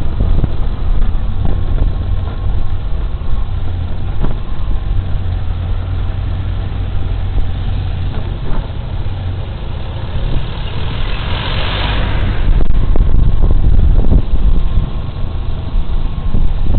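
Suzuki Burgman Street 125 scooter on the road, heard from the rider's body-worn camera: a steady low rumble of engine and wind. A louder rushing hiss swells about eleven seconds in and fades a second or two later.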